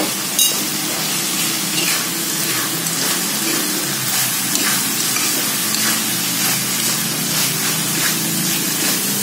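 Stir-frying in a wok: the chili sambal sizzles as a metal spatula turns fried petai beans and anchovies through it, with light repeated scrapes of the spatula against the pan.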